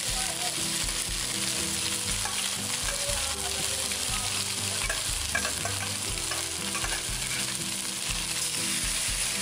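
Spice-coated boiled taro (arbi) sizzling steadily in hot oil in a stainless steel kadhai. A metal ladle scrapes and clinks against the pan as onion masala is spooned in and stirred through.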